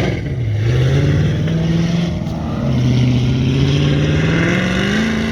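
Engine of a classic Chevrolet Apache pickup being driven hard on an autocross course. It revs up, dips briefly about half a second in, holds, drops sharply near the midpoint as the driver lifts or shifts, then climbs steadily again under acceleration.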